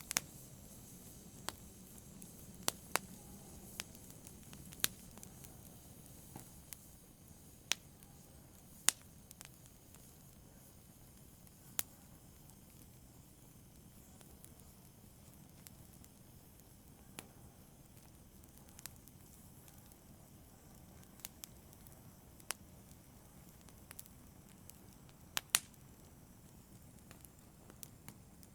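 Fire crackling softly: irregular sharp pops and snaps over a faint low hiss of burning, more frequent in the first half and with a couple of close pops near the end.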